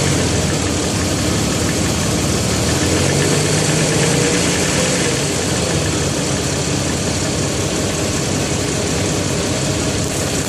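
Jeep engine idling hot after a restart with a rapid, steady knock, which the owner takes for piston slap.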